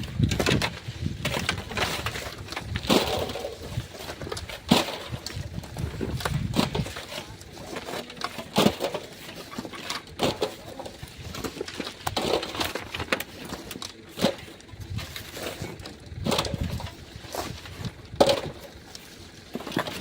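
Black sand being dug and shifted by hand with a digging tool: irregular scrapes and knocks, one every second or two.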